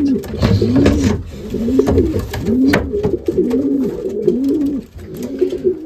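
Racing pigeon cooing: a run of low, rounded coos, about one a second.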